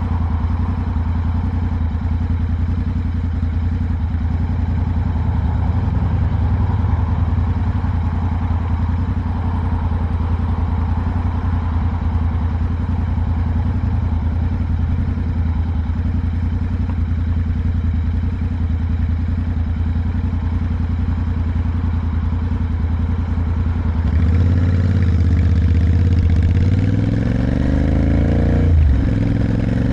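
Motorcycle engine running at steady revs, then from about three-quarters through the revs rise and fall with throttle changes, with a quick sharp swing in pitch near the end.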